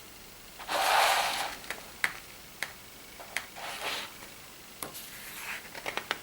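Pages of a paper catalogue being turned and handled: a loud paper swish about a second in and a softer one near the middle, with light clicks and taps in between and a cluster of them near the end.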